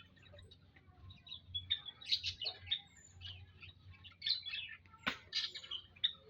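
Olive-backed tailorbirds giving many short, high chirps in quick succession, with a sharp click about five seconds in.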